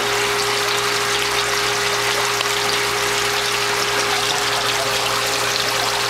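Water falling steadily from a cooling tower's fill into its basin, like heavy rain, with a constant low hum and a steady tone underneath.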